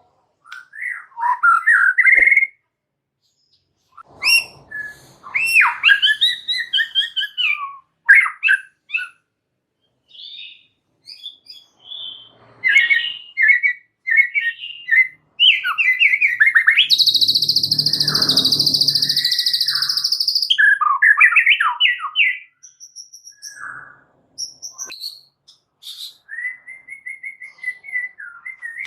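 White-rumped shama singing: separate bursts of quick, sweeping whistled phrases with short pauses between them. About seventeen seconds in comes a loud, harsh buzzing rattle lasting some three seconds, then the whistled phrases resume.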